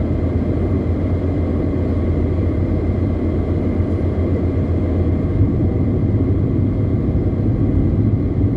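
Car driving on the highway: a steady low rumble of engine and road noise.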